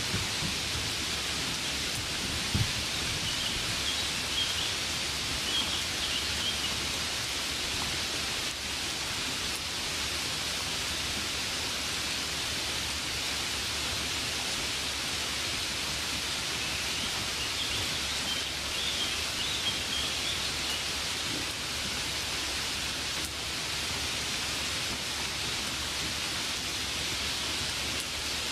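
Steady rain falling, an even hiss without a break. A low rumble of distant thunder fades out in the first few seconds, and faint high chirps come through a few times.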